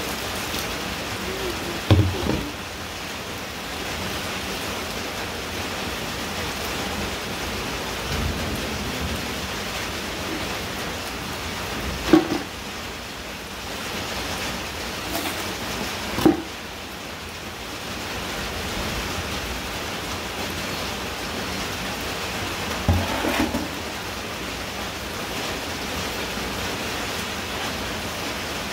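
Steady rain falling on wet ground and puddles, broken by about four short sharp knocks.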